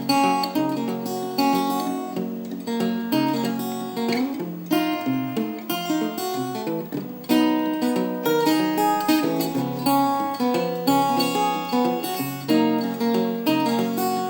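Requinto guitar fingerpicked in Travis style, with a steady plucked bass line under a melody played on the higher strings.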